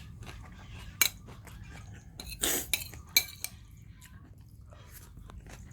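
Puppies eating from a dish: scattered clinks and knocks of the bowl, with sharp clacks about a second in and just after three seconds, and a short noisy scuffle around two and a half seconds.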